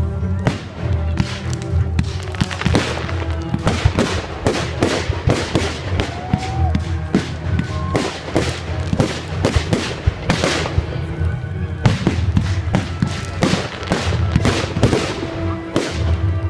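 Fireworks going off in quick, irregular succession, a steady run of sharp bangs and crackles, with music playing underneath.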